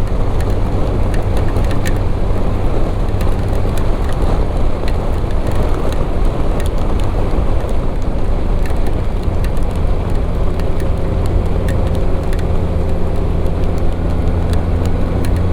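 Motorcycle riding in the rain: a steady low engine drone under wind and road noise, with scattered ticks of raindrops striking.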